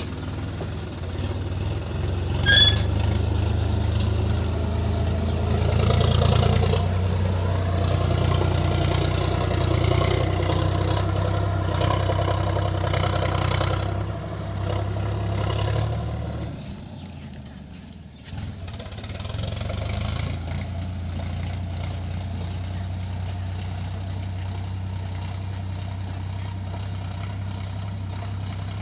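Sonalika DI 50 RX tractor's diesel engine running, at raised revs for the first half, then dropping back about halfway through and settling to a steady idle. A brief high ting sounds near the start.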